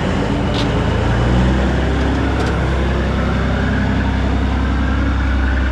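Heavy diesel truck engine idling steadily close by.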